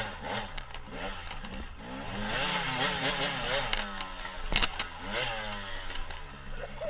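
Dirt bike engine revving up and down as the bike rides the trail, with a sharp knock about four and a half seconds in.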